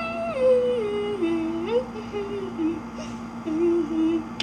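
A child humming a wordless tune, the first note sliding down in steps and then short wavering notes. A steady low hum runs underneath.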